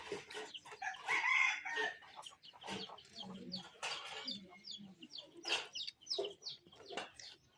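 Chickens clucking, with a rooster crowing about a second in.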